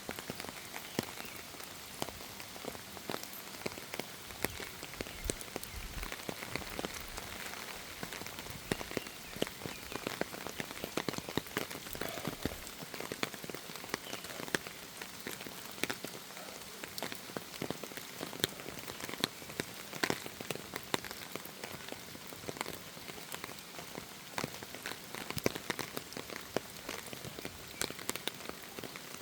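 Rain falling in a forest: a steady hiss of rain with many separate drops pattering close by.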